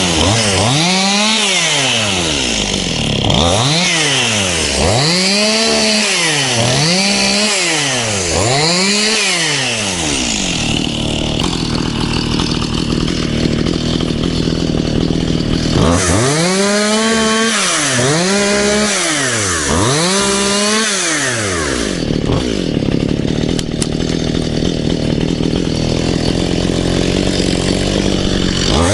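Stihl MS 211 C two-stroke chainsaw cutting small trees and vines. The engine is revved up and down again and again, each rev rising and falling in pitch, with stretches held at a steady speed in between.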